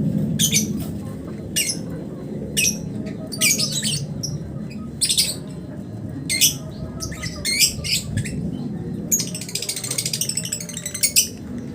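Lovebird giving shrill squawks about once a second, then breaking into a rapid, unbroken chattering run (the 'ngekek' call) about nine seconds in, lasting around two seconds.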